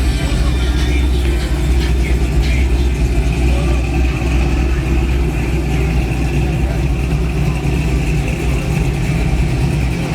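Car engine running at idle with a loud, steady deep rumble; a faint steady high whine joins about two and a half seconds in.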